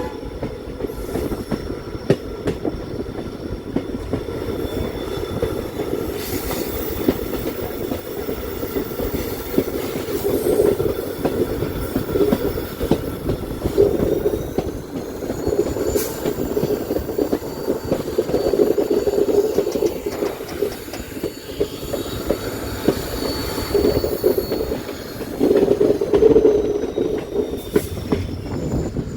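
Passenger train running along the rails, with the rumble and clatter of its wheels. High, thin wheel squeal rings over it and rises slightly in pitch about halfway through.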